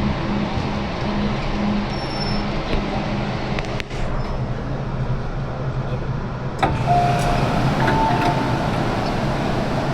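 Interior of an MTR Island Line M-train running through the tunnel: a steady rumble of wheels and track with a low motor hum. About two-thirds of the way in, the noise jumps up suddenly, and brief high squeals follow.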